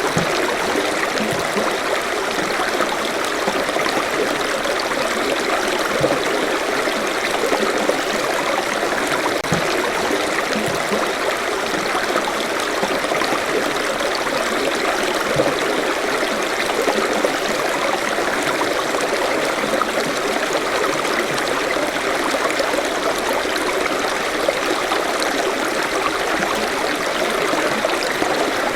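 Forest stream flowing steadily over stones, a continuous rush of water with small gurgles and splashes.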